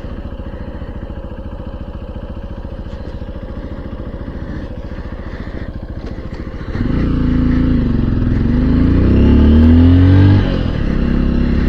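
Honda XR150L's single-cylinder four-stroke engine idling steadily, then about seven seconds in the motorcycle pulls away louder. The revs rise, dip once and climb again before easing back near the end.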